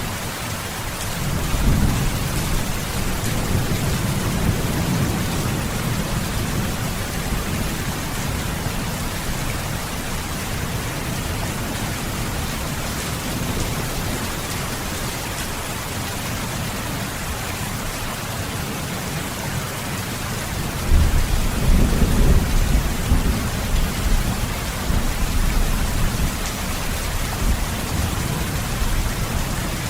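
Steady heavy rain, with two low rolls of thunder: one swelling about two seconds in, and a louder one about two-thirds of the way through that rumbles on for several seconds.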